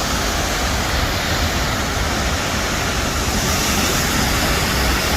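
Tall two-tiered waterfall plunging into its pool: a loud, steady, even rush of falling water.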